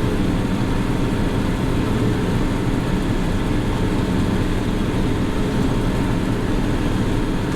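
Old John Deere 8820 combine running, heard from inside its cab: a steady, unbroken machine drone of engine and drives, with a faint steady high tone over it.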